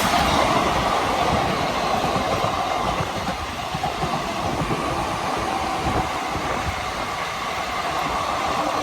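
Passenger train running through at speed close by: a steady loud rumble and rattle of wheels on the rails that does not let up.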